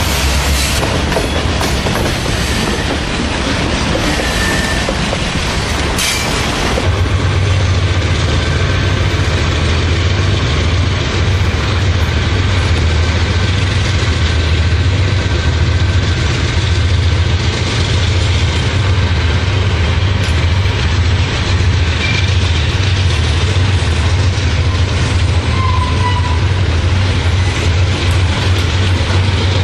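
Train rolling past with a steady, loud running noise; a deep low drone joins about seven seconds in and holds.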